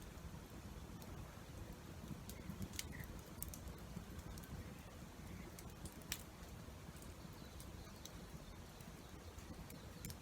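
Campfire crackling: a few scattered sharp pops over a low steady rumble.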